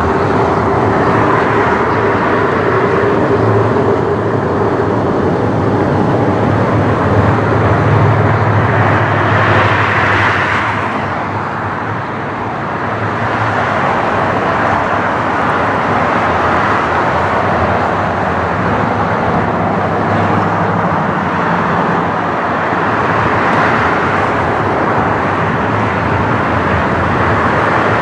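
Jet airliner engines running at the airport, a steady loud rush with a low hum under it that dips briefly about twelve seconds in.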